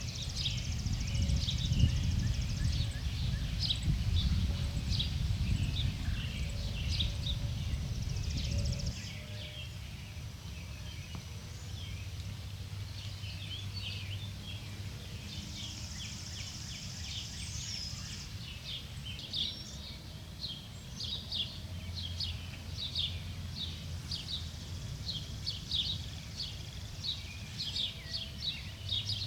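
Songbirds chirping and calling over and over, with a few buzzy trills among them. A low rumble underneath stops suddenly about a third of the way in, leaving a faint steady low hum.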